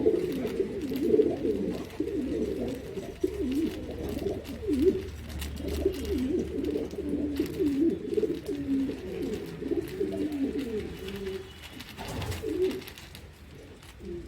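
Pigeons cooing continuously, several birds overlapping, thinning out near the end.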